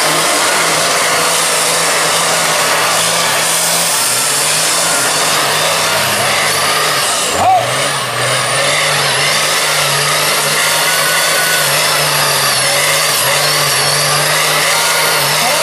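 Monster truck engines held at full throttle in a tug of war, with the big V-tread tyres spinning and burning rubber on the pull pad. The engine note stays steady and loud, dips briefly about halfway through, then picks back up.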